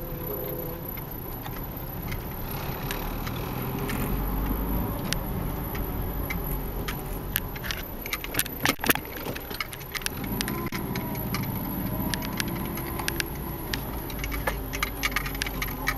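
A 1990 Hyundai Sonata's engine running as the car is moved at low speed, with a light jangle of keys and scattered clicks, thickest about halfway through.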